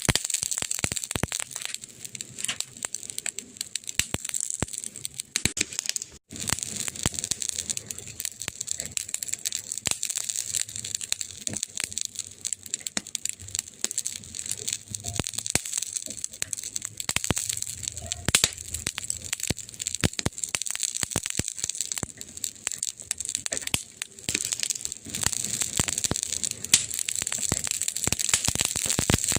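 Burning wood crackling: dense, irregular pops and snaps over a steady hiss. It drops out for an instant about six seconds in.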